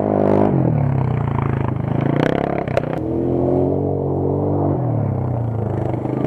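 Off-road race vehicle's engine revving, its pitch dropping and climbing again several times as the throttle is worked, with a few sharp clicks about two to three seconds in.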